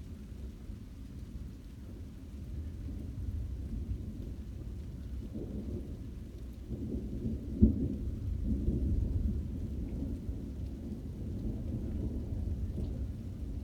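Thunder rumbling low and long, swelling about five seconds in, with one sharp crack about seven and a half seconds in, then rolling on.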